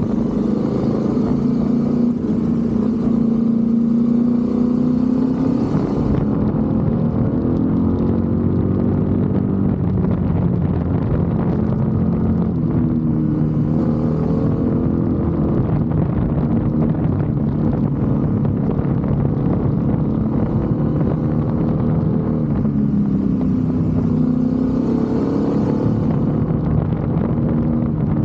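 BMW F850 GS motorcycle's parallel-twin engine running under way, its note rising and falling repeatedly as it speeds up and slows through the gears. Wind hiss on the microphone during the first few seconds and again around the middle and near the end.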